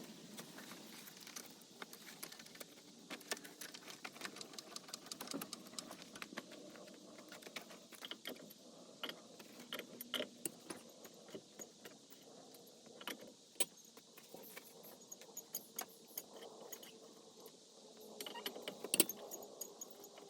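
Irregular light metallic clicks and clinks of tools and lug nuts being handled while wheels are taken off a truck.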